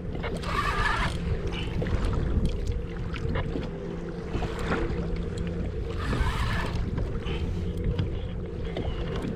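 Sounds from a kayak during a long fight with a deep-running tuna: a steady low hum, with short bursts of noise every few seconds and scattered clicks, likely the fishing reel being worked and water against the hull.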